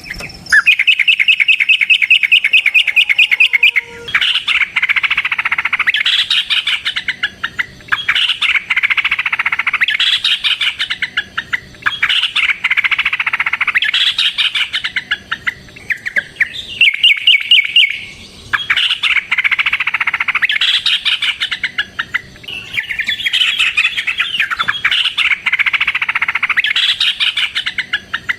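Yellow-vented bulbul (trucukan) singing long, loud, rapid-fire phrases of chattering notes, broken by a few short pauses. Some phrases are fast, even trills.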